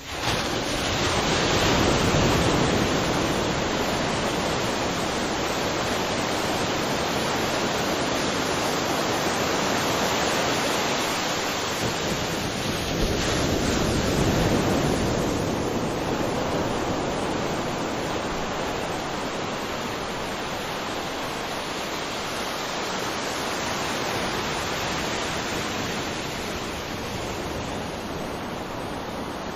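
Waterfall: a dense, steady rush of falling water that swells slightly a couple of seconds in and again about halfway, then eases a little.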